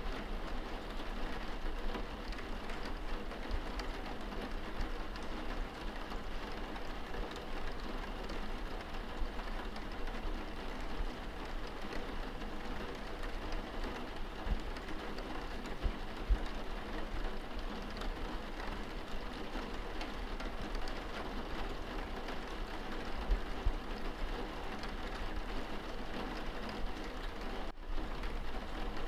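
Steady rain pattering on window glass, heard from indoors. The patter is even, with scattered sharper taps of single drops, and there is a momentary drop-out near the end.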